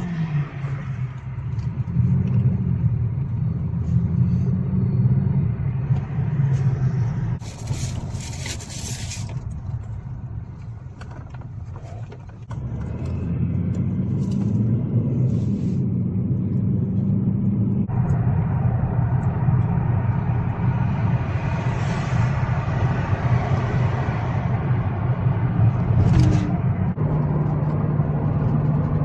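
Car driving along a road: a steady engine hum under road noise, its pitch stepping up and down as the car speeds up and changes gear. There is a brief hiss about a third of the way in.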